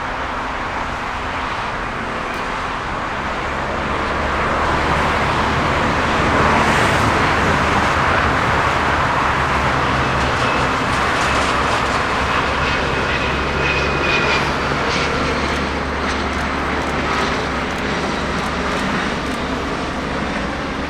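Jet airliner's engines passing, a broad rushing roar that swells to its loudest about six to eight seconds in and then fades slowly, with a faint high whine partway through.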